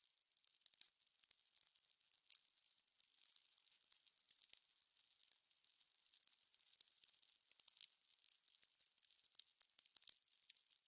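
Fire crackling: irregular sharp pops and snaps over a soft hiss.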